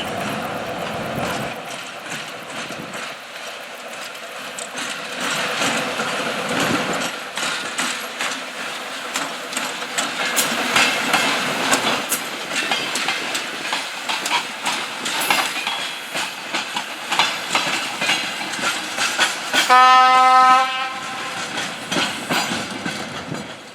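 ChME3 diesel shunting locomotive passing, its wheels clicking over the rail joints in a dense rattle. Near the end it gives one horn blast of about a second, the loudest sound.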